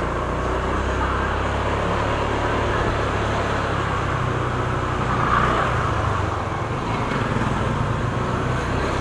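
Motorcycle riding along: a steady low engine hum under road and wind noise, swelling briefly about five seconds in.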